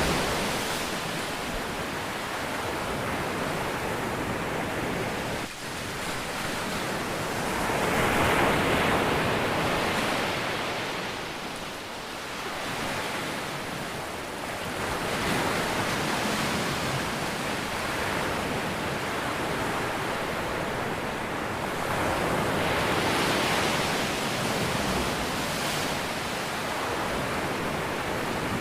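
Ocean waves washing onto a shore, the surf swelling and easing about every seven to eight seconds.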